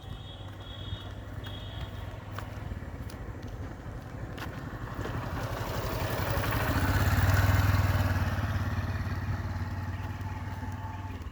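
A motor vehicle passes close by, its engine hum growing louder to a peak about seven seconds in and then fading away.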